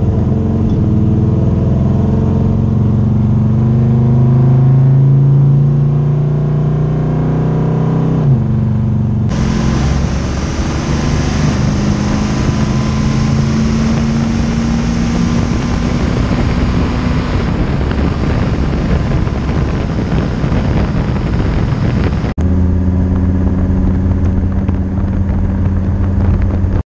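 1967 Camaro's 600-hp big-block V8 running under way at a steady cruise with a slight rise in revs, heard from inside the cabin. From about nine seconds in it turns into a harsher, hissier sound for some thirteen seconds, then cuts back to a steady engine note.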